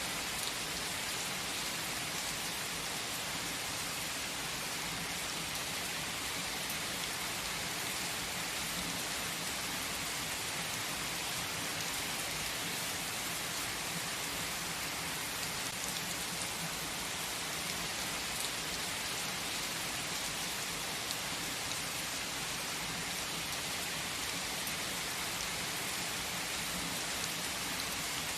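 Steady rain falling: an even hiss with scattered drop ticks, unchanging in level.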